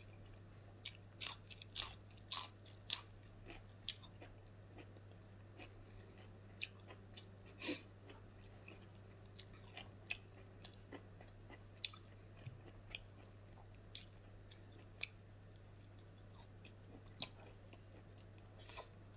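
A person chewing and biting food close to the microphone, with irregular crisp crunches, over a steady low hum.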